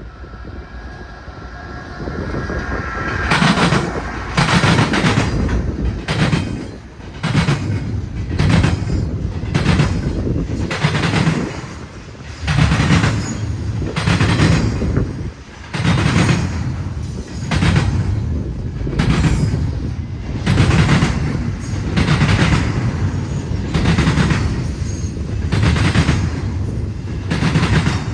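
Freight train cars rolling past, a steady low rumble with the wheels knocking rhythmically over the trackwork, often in pairs, a bit more than once a second. A faint high steady tone is heard for the first few seconds before the knocking begins.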